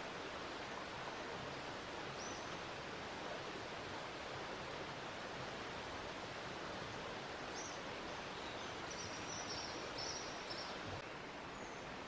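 Steady outdoor background hiss with faint, high, short bird chirps: one about two seconds in, then a quick series of several near the end.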